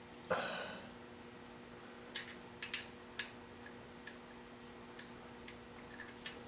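Irregular light metallic clicks and taps of a hand tool on engine bolts as they are snugged by hand, after a short rustle about a third of a second in, over a faint steady hum.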